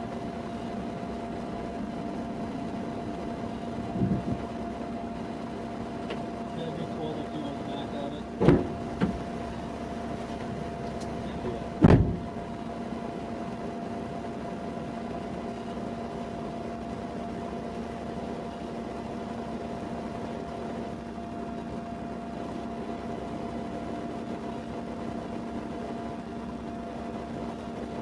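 Steady hum of an idling vehicle, broken by a few sharp knocks, the loudest about eight and a half and twelve seconds in.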